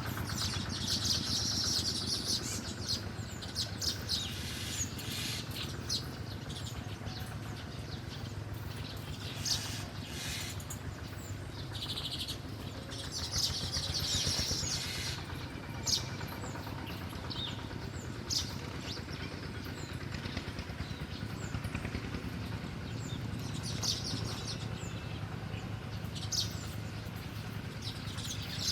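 Small birds chirping, with groups of quick high calls and single sharp chirps every few seconds, over a steady low hum.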